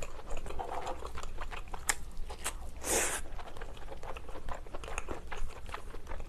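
Close-miked chewing of steamed king crab meat: many small wet clicks and smacks from the mouth, with one louder crunch about three seconds in. Near the end the crab shell is handled, adding light clicks.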